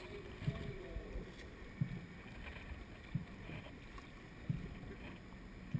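Faint wind and outdoor noise with five soft low thumps coming evenly, about one every second and a third.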